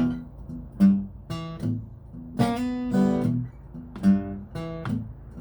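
Acoustic guitar strummed in chords, about seven strokes that each ring and fade: the opening of a song before the singing comes in.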